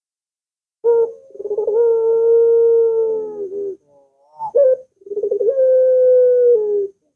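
Puter (Barbary dove) cooing as a lure call: two long drawn-out coos, each opening with a rolling trill and then held on one steady pitch for about two seconds, with a short note between them.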